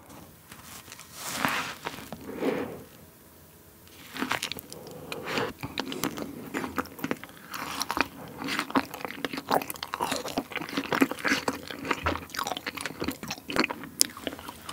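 Close-up bite into a whipped-cream fruit sandwich, followed by steady chewing. The fruit is still frozen, so the chewing is a dense run of small crunches among softer mouth sounds, starting about four seconds in.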